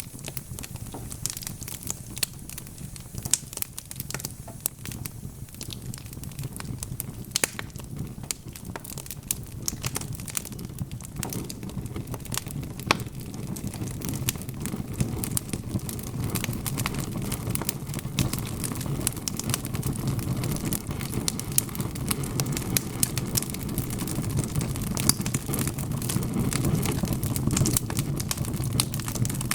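Wood fire crackling, with frequent irregular sharp pops and snaps over a low rumble that grows louder about halfway through.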